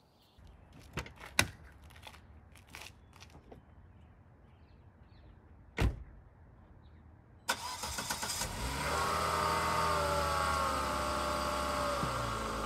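Volvo S80 engine starting: a few faint clicks and a single sharp thump, then the starter cranks and the engine catches about two-thirds of the way in. It flares briefly and then settles into a steady idle, its pitch easing down.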